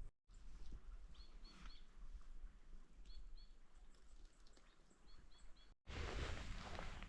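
A bird calls in quick sets of three short, high chirps, three times over a few seconds, above a low rumble. Near the end a louder, even rush of noise comes in.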